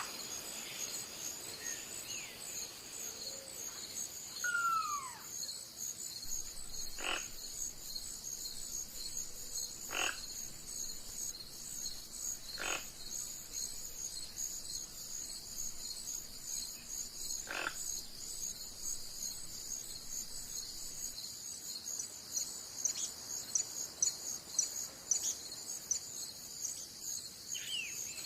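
Outdoor nature ambience: a steady, high, pulsing insect chorus, with one falling whistled call about four seconds in and a few short sharp calls several seconds apart.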